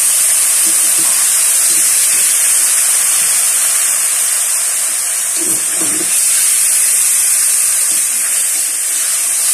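Raw chicken pieces sizzling loudly in hot oil with garlic and onion in a metal wok, a steady hiss, as they are stirred and turned over with a spatula.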